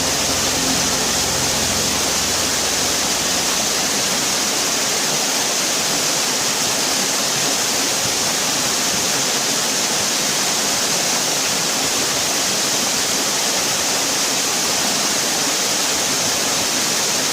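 Steady rushing water, like a waterfall or fast stream, an even hiss with no breaks; the last notes of music fade out under it in the first second.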